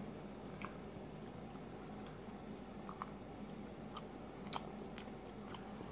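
A person chewing and biting a soft egg-and-sausage English-muffin breakfast sandwich close to the microphone, with small wet mouth clicks scattered through, over a faint steady hum.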